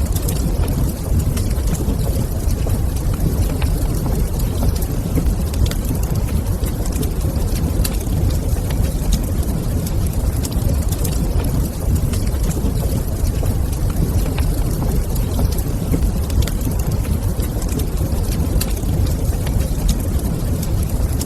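Wood fire crackling in a fireplace, with frequent small sharp pops scattered over a steady low rumble.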